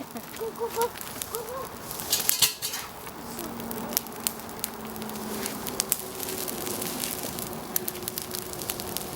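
Campfire crackling, with many small sharp pops and snaps at irregular intervals over a soft hiss.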